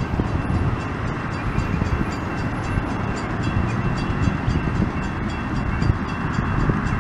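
A train passing close by, its wheels rumbling on the rails with a fast, regular clicking, and faint steady high tones from the wheels over it.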